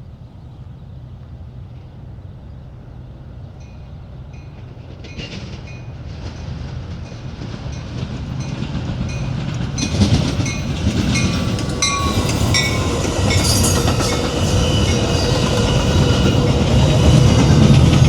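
Passenger train approaching on the line, growing steadily louder, with a rhythmic clickety-clack of wheels over the rails.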